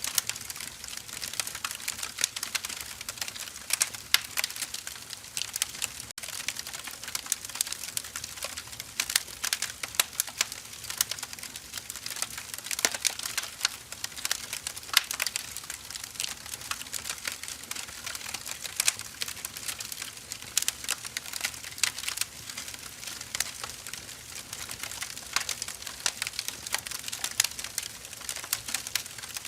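Wood fire crackling: dense, irregular sharp snaps and pops over a steady soft hiss.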